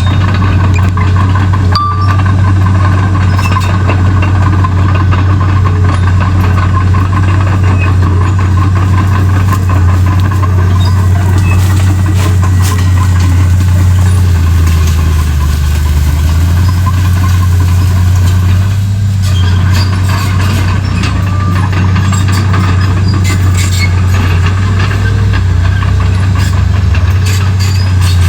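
Komatsu D31P bulldozer's diesel engine running steadily with a strong low drone, which drops in pitch for a few seconds about halfway through and again near the end, with scattered light clicks and knocks over it.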